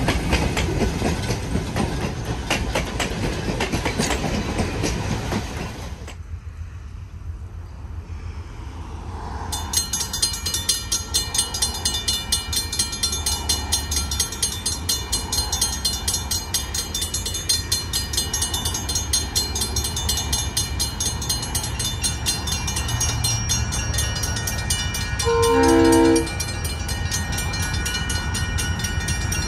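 Diesel-hauled Napa Valley Wine Train running, its wheels clicking over the rail joints. The sound drops off abruptly, then a steady rumble with a regular pulse takes over. Near the end comes one short blast of the locomotive's multi-note horn, about a second long.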